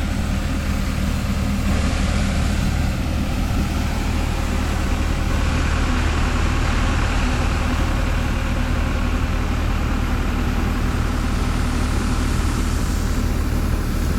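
A large engine running steadily at constant speed: an even low drone with a noisy hiss above it, unchanging throughout.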